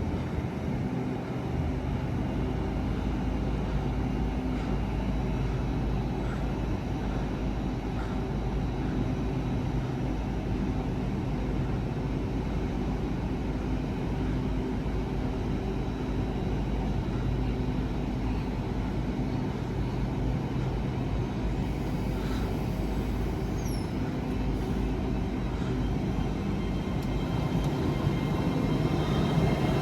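A train's steady low running hum with several held low tones, getting louder near the end.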